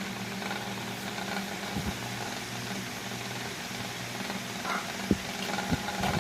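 Vornado 12P1 fan running with a steady hum and a rattle from its tilted head, with two short knocks a little after five seconds in.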